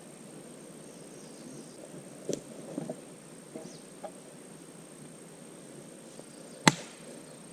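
A few sharp cracks and knocks of twigs and branches being handled, the sharpest near the end, over a faint steady insect hum.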